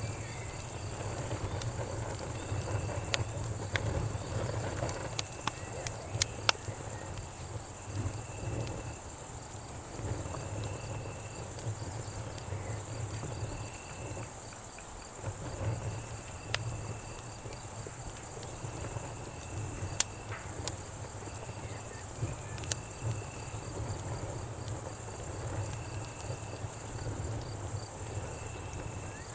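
Steady, high-pitched chorus of night insects, cicadas and crickets, with one cricket giving short chirp trills every second or two. Underneath, a campfire crackles with scattered sharp pops over a low, steady rumble.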